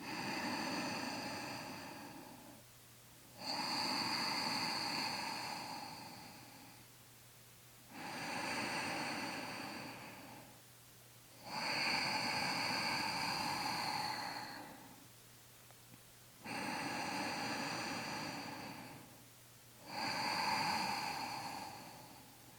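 Slow, deep, audible breathing held in downward facing dog: six long breaths in and out, each lasting about three seconds with a brief pause between them.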